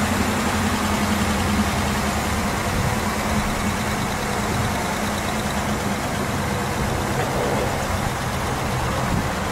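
Pontiac Firebird engine running steadily under an open hood, treated with ZAK C301 oil conditioner and being run to see whether it will fail.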